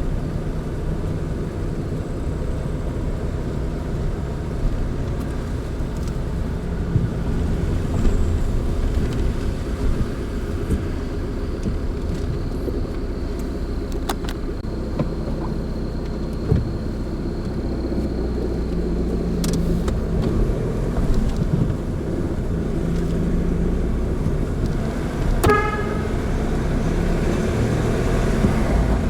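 Car driving steadily along a narrow road, with a continuous low engine and tyre rumble. A brief higher-pitched tone cuts in about 25 seconds in.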